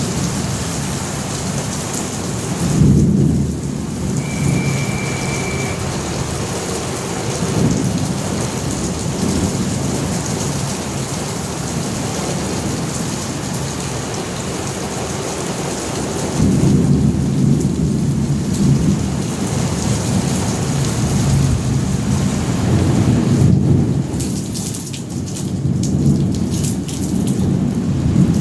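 Steady heavy rain with rolling thunder: a rumble about three seconds in, a longer one from about sixteen seconds, and more thunder near the end. A brief high steady tone sounds about four seconds in.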